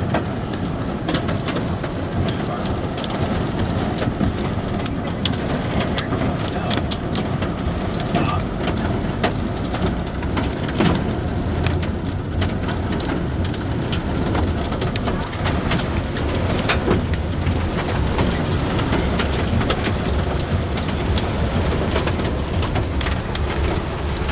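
Hail and heavy rain drumming on a car's roof and windshield, heard from inside the cabin as a dense patter of sharp ticks over a steady low rumble of the car on the road.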